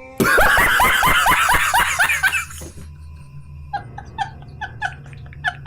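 Inserted comic sound effect: a loud burst of high laughter, then a run of short two-note chirps repeating about two to three times a second.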